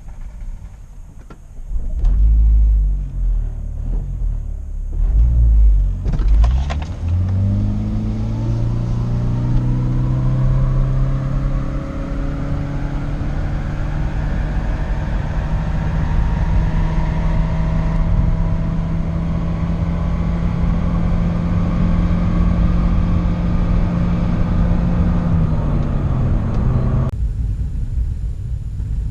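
2010 Toyota Prius hybrid making a full-throttle quarter-mile drag run: a low rumble for the first few seconds, then the engine revs up at launch and holds one steady drone, as the hybrid transmission keeps its speed constant, while a fainter whine climbs in pitch with road speed. Near the end the throttle is lifted and the drone drops away.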